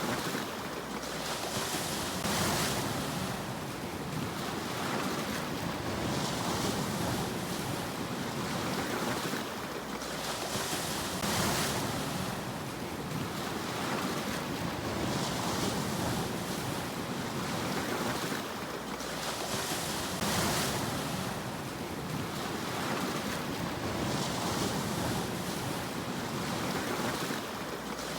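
Sea waves washing onto a shore: a continuous surf hiss that swells into a fresh wash every few seconds.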